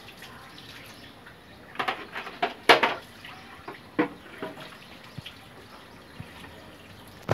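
Liquid spraying and dripping in short spurts and splashes as an air conditioner's indoor unit is washed with cleaning chemical and water. The loudest spurts come about two to three seconds in, with another at about four seconds.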